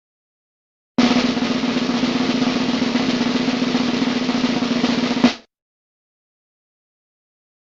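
Snare drum roll starting abruptly about a second in, held steadily for about four seconds and ending on a sharp accent before it cuts off.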